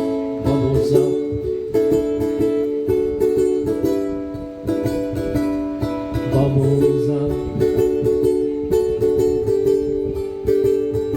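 Instrumental music: a strummed acoustic string instrument playing sustained chords with a steady rhythm, without singing.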